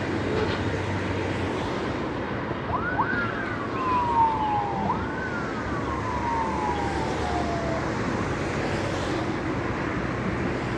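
A siren wailing in three sweeps, the first two overlapping: each climbs quickly and then slides slowly down over about two seconds. A steady rumble of road traffic runs underneath.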